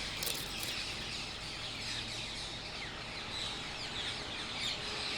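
Flock of rose-ringed parakeets calling: many short, high, falling calls overlapping, with a few sharper calls about half a second in.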